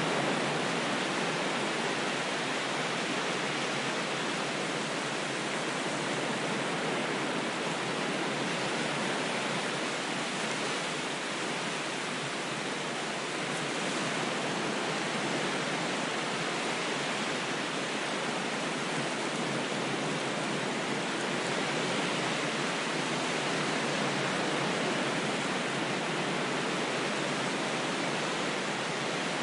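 Ocean waves as a constant, even rushing wash, with only slight slow swells in loudness and no separate breakers standing out.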